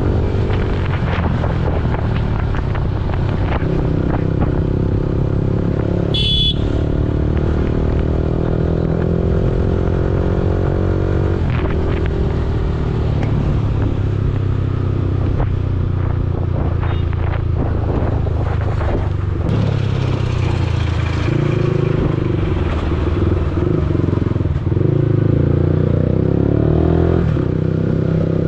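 Yamaha R15 V4's 155 cc single-cylinder engine running under way, its pitch climbing and dropping back several times as the revs rise and the gears change. It is joined by clatter from the ride and a short high beep about six seconds in.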